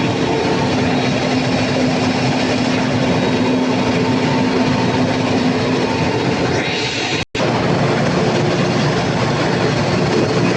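Cummins KTA50 16-cylinder diesel generator engine running loud and steady under load-bank testing, with a steady hum running through the noise. The sound cuts out for an instant about seven seconds in.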